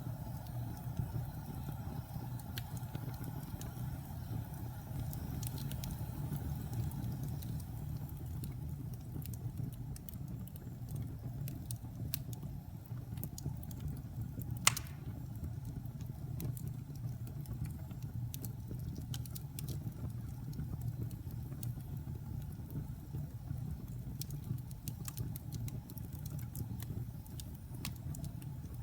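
A fire burning in a fireplace, with a steady low rumble and scattered small crackles. One loud, sharp pop comes about halfway through.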